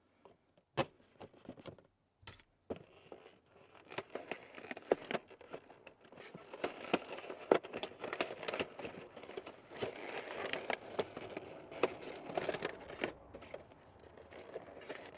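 Hands handling and unpacking phone holders: plastic packaging crinkling and tearing, with scattered clicks and taps. Sparse clicks at first, growing into a dense, busy run of crinkling and scraping from about six seconds in.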